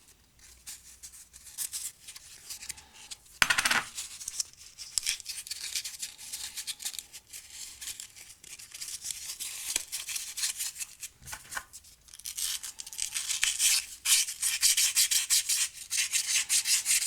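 Hand sanding with sandpaper: quick back-and-forth scraping strokes knocking the sharp corners off the parts. The strokes get faster and louder for the last few seconds, and there is a single knock about three and a half seconds in.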